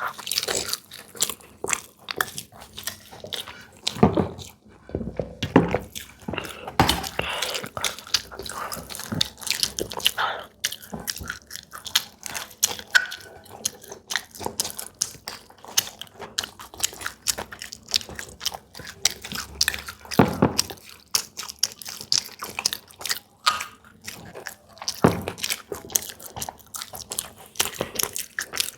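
Close-miked eating: chewing and biting into samosas and litti, with many small crunches and crackles of the fried crust and wet mouth noises.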